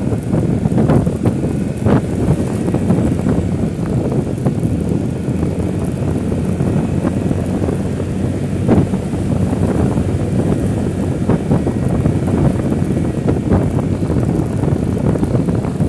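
Steady low rumble of a vehicle on the move, with wind buffeting the microphone and a few faint knocks.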